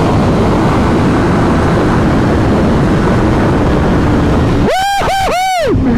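Several sportbike engines running loudly together in a dense rumble. Near the end, three quick throttle blips, each rising and falling sharply in pitch.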